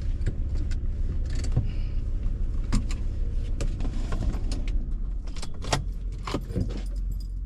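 A vehicle's engine running with a steady low rumble, with many short clicks and rattles over it.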